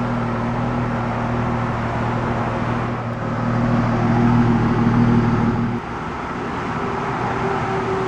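2002 Ford Mustang's 3.8-litre V6 idling steadily; the engine's tone changes abruptly about six seconds in.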